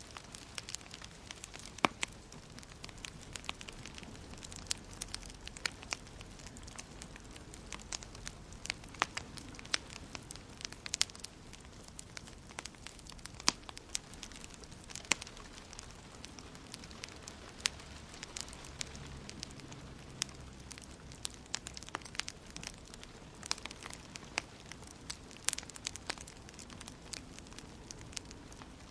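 Wood fire in a fireplace crackling, with irregular sharp pops and snaps over a soft, steady hiss.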